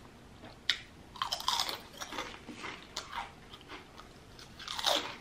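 Close-up crunching and chewing of potato chips: a sharp crack under a second in, a run of crisp crunches, and a loud crunching bite near the end.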